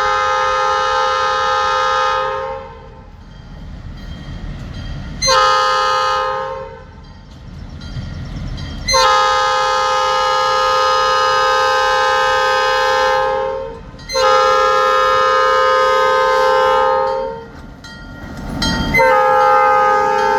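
Locomotive multi-chime air horn sounding a series of blasts, long, short, then two long, with another beginning near the end, over the low rumble of the passing train.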